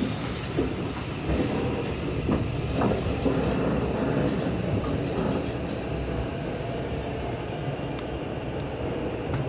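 Seibu Railway electric train running with a steady rumble and a few sharp clicks from the wheels.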